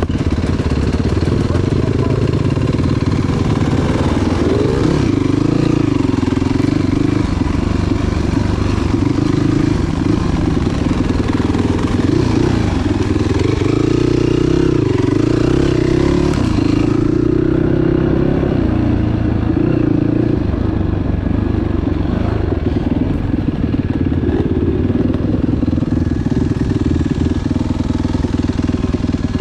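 Enduro motorcycle engine running under way off-road, its pitch rising and falling as the throttle is opened and closed. About halfway through, a hiss over it drops away.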